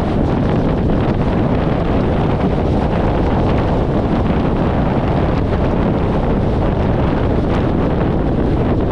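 Steady wind buffeting on an exterior car-mounted microphone at highway speed, with road and engine noise of a 1994 VW Gol with a 1.6 CHT engine underneath.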